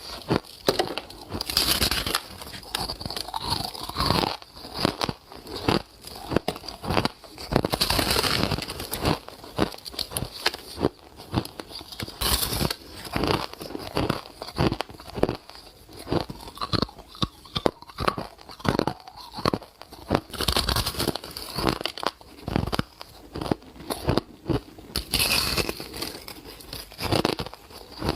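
A person biting and chewing soft ice: a dense run of crunches and crackles, with a louder bite every few seconds.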